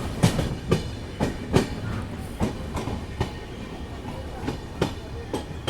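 Train rolling past, its wheels clacking over rail joints at uneven intervals above a steady rumble.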